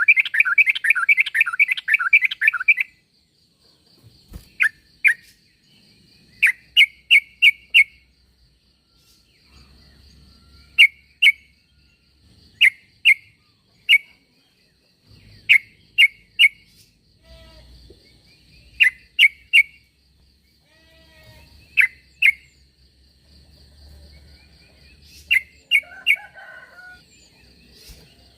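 Yellow-vented bulbul (trucuk) calling, a lure call for drawing other trucuk: a dense, fast chattering run of notes for about the first three seconds, then short bubbly notes in clusters of two to four, repeated every second or two. A faint steady high-pitched buzz runs beneath from about three seconds in.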